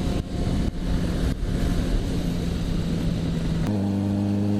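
Yamaha XJ6F motorcycle's inline-four engine running under way, mixed with wind and road noise, with three short dips in level early on. Near the end the engine settles suddenly into a steadier, stronger tone.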